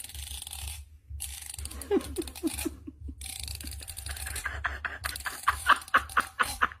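Teeth of a plastic comb being scratched, a rapid run of ticks repeated in strokes, with short pitched sounds mixed in.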